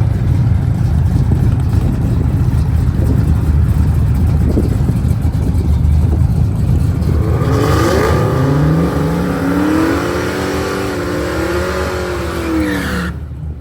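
Ford Mustang engine running loud with a deep rumble, then revving up in rising steps of pitch as it accelerates, cutting off suddenly near the end.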